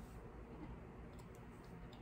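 Quiet room tone with a few faint clicks about a second and a half in: mouth sounds of a jelly bean being chewed.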